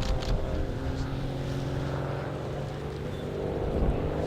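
Grob 115E Tutor's 180-horsepower Lycoming piston engine and propeller running steadily in flight, a fairly even drone.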